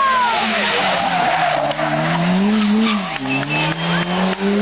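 Rally car engine accelerating hard, its revs climbing, falling sharply about three seconds in at a gear change, then climbing again. Tyres squeal briefly near the start.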